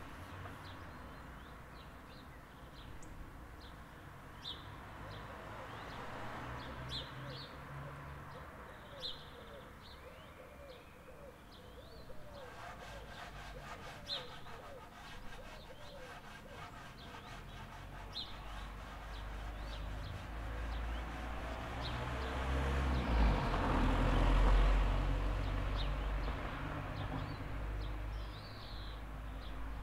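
Small birds chirping in short, repeated calls over a low outdoor rumble. A broad rushing swell rises and fades about three-quarters of the way through.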